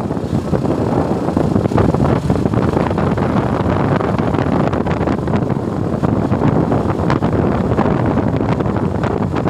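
Suzuki Gixxer motorcycle on the move: steady wind rush buffeting the microphone over the bike's running and road noise.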